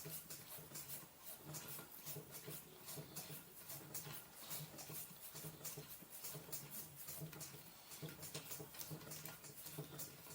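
Faint, irregular small clicks and taps, several a second, from hands and tools working on the mountainboard truck's metal parts and spring mounts.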